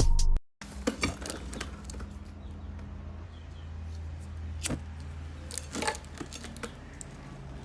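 Intro music cuts off, then a steady low hum with a few scattered clinks and knocks of metal parts being handled.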